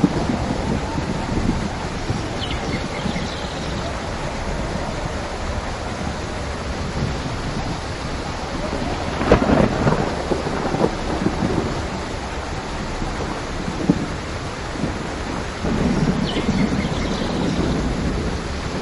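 Steady rain during a thunderstorm. A sharp thunderclap comes about halfway through and rumbles on, with a smaller crack a few seconds later and another low rumble of thunder near the end.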